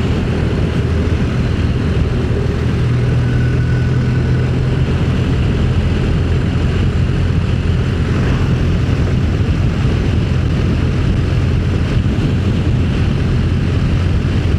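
Motorcycle engine running at a steady cruise, heard on board while riding: an even low drone that holds the same pitch throughout, under a continuous rush of road and wind noise.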